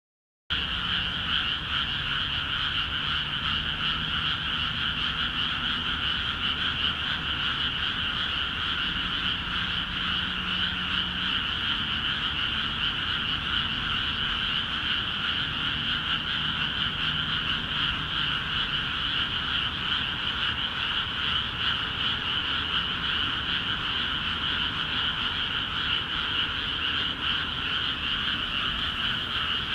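Dense chorus of many frogs calling at once in freshly flooded rice paddies, a continuous wall of overlapping croaks with no pauses. It sets in about half a second in.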